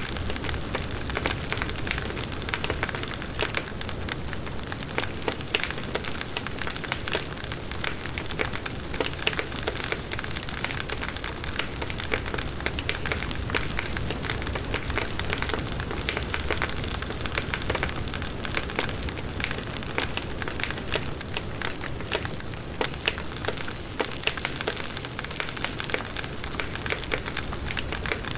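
Firewood burning in a campfire, with constant crackling and many small pops over a steady hiss.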